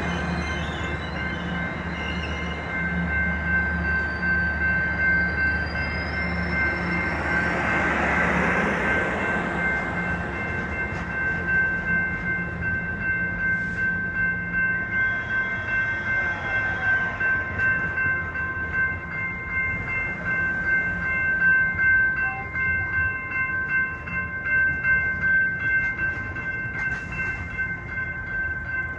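Passenger train running through the station: a deep engine rumble early on, then wheels clacking in a steady rhythm under several steady high-pitched tones.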